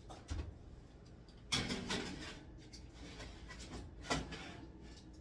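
Kitchen handling noises as a baking sheet goes into the oven: a light knock, then a louder scraping clatter about a second and a half in, and another short knock about four seconds in.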